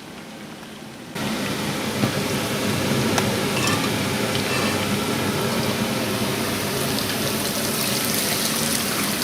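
Diced chicken deep-frying in hot oil: a dense, steady sizzle full of small crackles that starts abruptly about a second in. This is the second fry, taking the pieces from lightly coloured to crispy.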